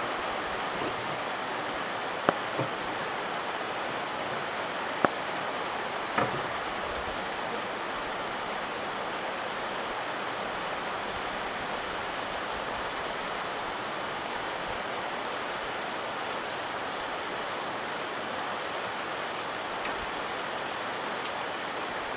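Steady rainfall, an even hiss of falling rain, with a few sharp taps standing out in the first several seconds.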